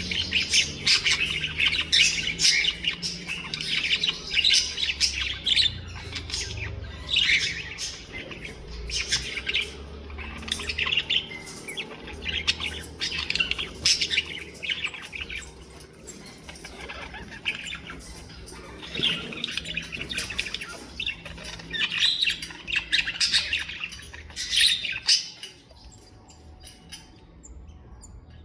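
Birds chirping and squawking in a rapid run of short, overlapping calls, which quieten in the last few seconds.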